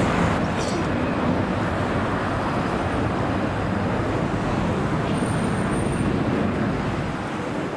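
Jet airliner's engines, a steady broad roar with a deep rumble, easing off near the end.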